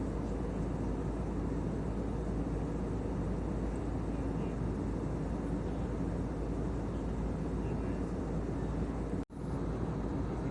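Airliner cabin noise in flight: a steady low rush of jet engines and airflow, broken by a split-second dropout about nine seconds in.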